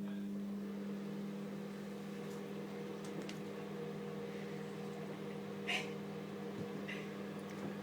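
Microwave oven running: a steady hum, with two brief faint clicks about two-thirds of the way through.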